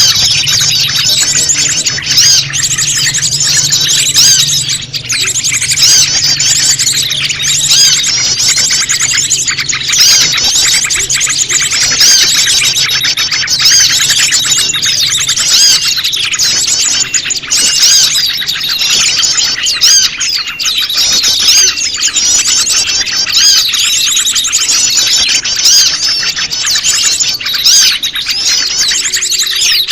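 A bird-lure recording: a dense, continuous chorus of small songbirds chirping and trilling rapidly over one another, with prenjak lumut calls mixed among other small birds' calls. A faint low hum sits underneath for the first half.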